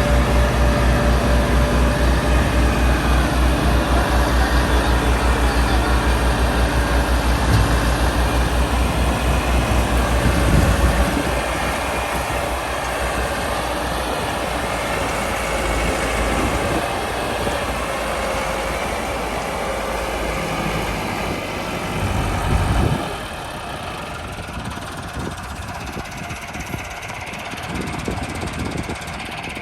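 Heavy tractor diesel engine running under load, a fast low pulsing that is loud for the first ten seconds or so and then fainter. It swells briefly a little after twenty seconds, then drops away quieter.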